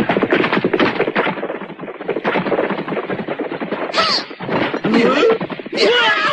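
Cartoon battle sound effects: a fast run of sharp cracks like gunfire for about four seconds, followed by short wavering yells.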